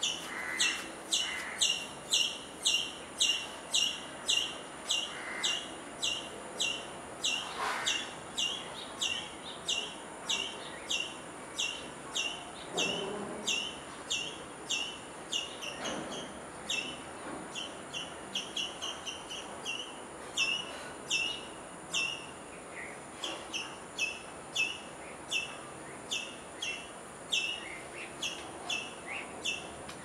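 A small bird chirping over and over, a steady run of short, high, down-slurred chirps at about two a second.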